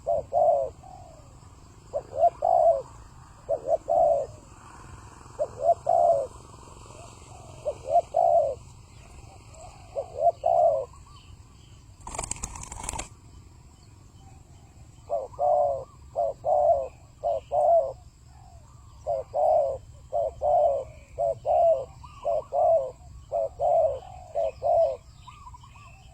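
Spotted doves cooing: low, repeated coo phrases about every two seconds, then quicker, closer-spaced phrases in the second half. A short noise burst sounds about twelve seconds in.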